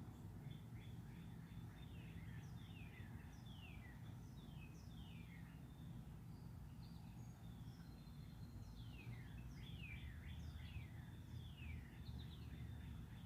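A songbird singing faintly: two runs of quick downward-slurred notes with a pause of a few seconds between them, over a steady low hum.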